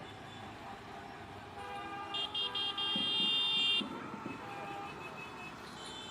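A horn sounds three short toots and then a held blast of about a second, over a steady rumble of vehicle noise.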